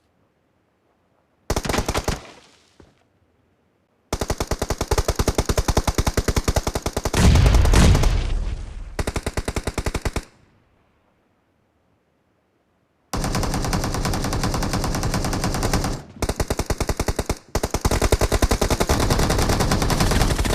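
Video-game automatic gunfire in rapid bursts: a short burst, then a long burst of several seconds with a louder, deeper stretch in the middle, then a few seconds of dead silence before sustained firing starts again about two-thirds of the way in.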